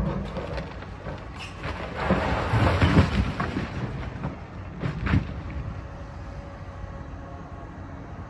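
Demolition machinery running with a steady low rumble. About two seconds in comes a loud crash of breaking and falling debris lasting over a second, and a couple of sharp knocks follow about five seconds in.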